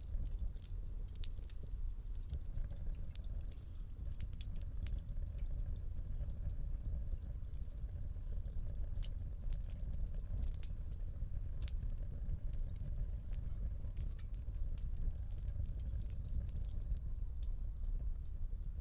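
Wood fire crackling in a fireplace: a dense, irregular stream of small sharp pops and snaps over a low, steady rumble of the burning.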